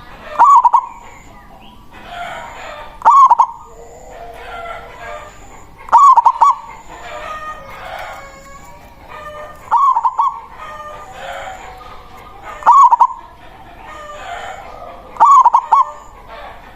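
Zebra dove (perkutut) singing its cooing 'manggung' song: six short, loud coo phrases repeating about every three seconds, with fainter bird calls in between.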